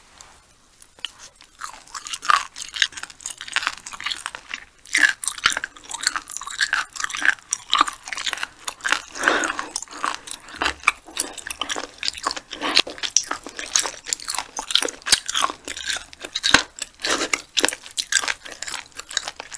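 Close-miked mouth sounds of chewing sea hare, many quick clicks and smacks in a steady stream. The flesh is tough and rubbery, like chewing a thick rubber band that won't break down.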